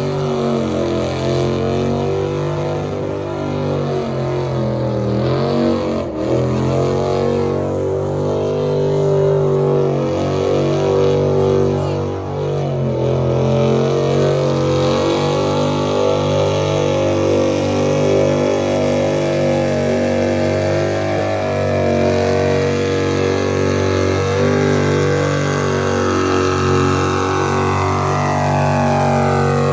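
Engine held at high revs during a burnout, running loud and steady; the revs dip and recover twice and climb again near the end.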